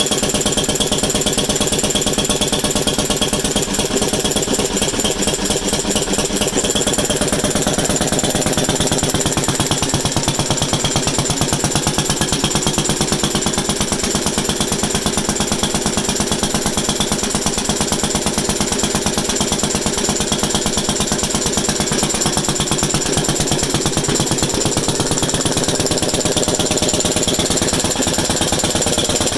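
Kelly and Lewis stationary engine running steadily with a rapid, even beat.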